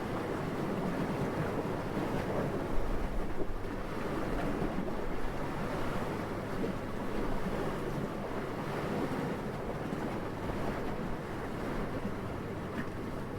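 Gentle, steady wind noise, with one brief louder moment about three seconds in.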